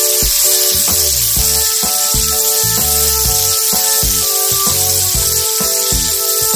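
Sliced onions and garlic sizzling in hot oil in a metal wok as they are stir-fried until fragrant, a steady frying hiss. Background music with a regular beat plays over it.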